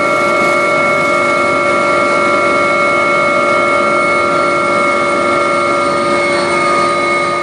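Agusta helicopter's turbine engine and rotor running steadily, heard from inside the cabin: a constant whine of several high tones over a dense rush.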